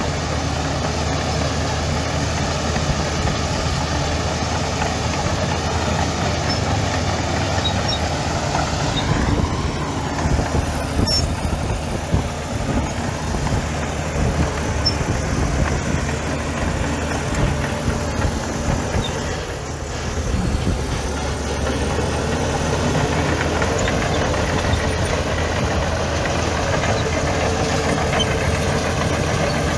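Heavy diesel engine of earth-moving machinery running steadily; its note shifts about ten seconds in, dips briefly around twenty seconds in, then picks up again.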